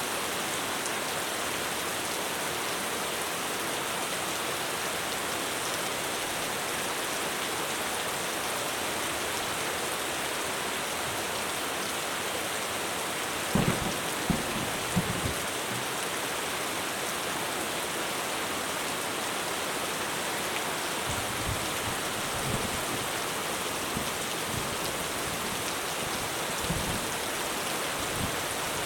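Heavy rain falling steadily on a roof, a dense, even hiss. A few short, low thuds stand out about halfway through and again in the last third.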